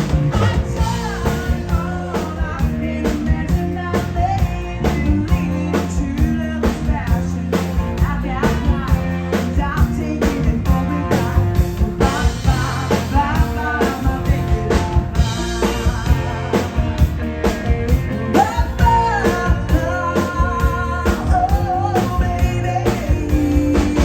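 A live band playing a rock and roll song, with a singer's lead vocal over a steady drum beat and guitar.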